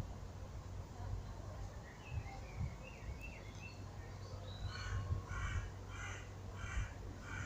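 A bird giving a quick run of about six harsh calls, starting over halfway through, with faint twittering a little earlier. A low steady hum runs underneath.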